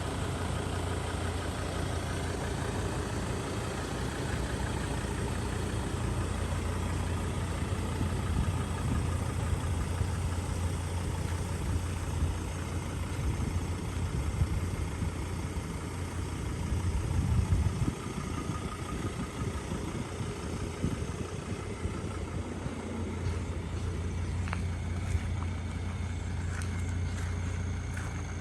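Vehicle engine idling steadily with a low drone, swelling briefly about two-thirds of the way through.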